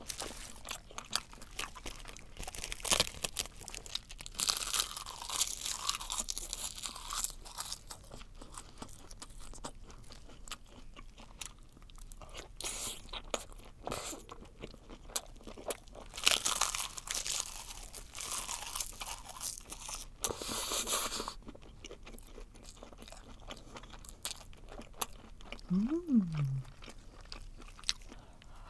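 Close-miked chewing of webfoot octopus wrapped in roasted seaweed: crisp crackling crunches of the dry seaweed sheet come in several spells between wet, clicking chews.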